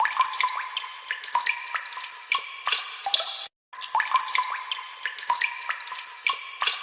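Water-drop sound effect: a quick run of short, high plinking drips, played twice with a brief silent break between.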